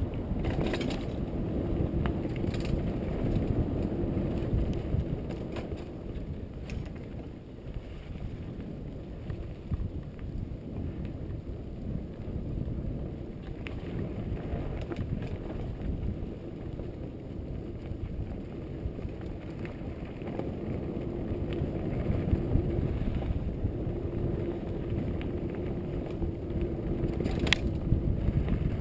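Trek Fuel EX8 full-suspension mountain bike ridden over a dirt trail: steady tyre and wind rumble with chain and frame rattle and scattered sharp clicks, the loudest near the end. At times a steady ratcheting buzz from the rear hub's freewheel comes through while coasting.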